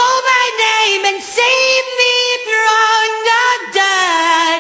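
A woman singing a held melody in a pop song, with sustained notes over the music.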